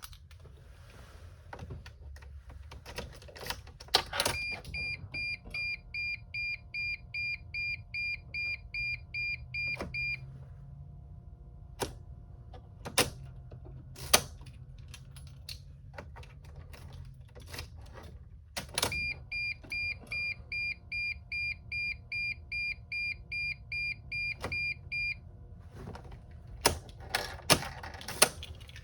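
Clicks of the ignition key and controls in a 2006 Sprinter van, twice followed by about six seconds of rapid electronic warning beeps, two to three a second, from the dash. The engine does not crank: the van's no-crank, no-start fault.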